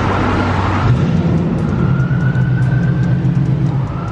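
Car engine running close by, with a deeper, stronger engine note coming in about a second in. A faint high tone rises slowly over it.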